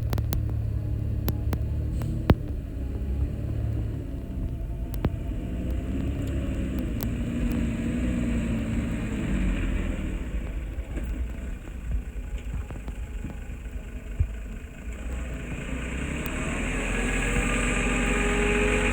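Diesel engine of heavy earthmoving equipment running with a low rumble, dropping back in the middle and building up again near the end. A few sharp metallic clicks come over it.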